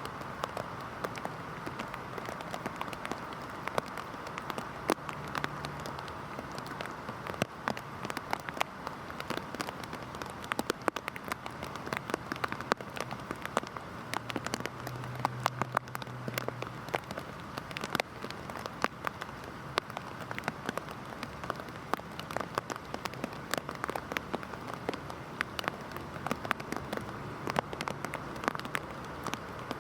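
Heavy rain falling steadily, a dense hiss full of sharp, close drop impacts.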